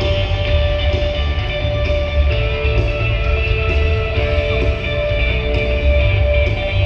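Loud live worship band playing, with electric guitar over heavy, pulsing bass and drums.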